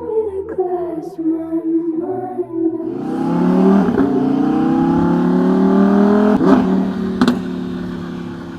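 Lamborghini Huracán V10 with a custom Nerol exhaust, accelerating hard about three seconds in, its pitch climbing steadily, with a few sharp cracks before it eases off and fades near the end.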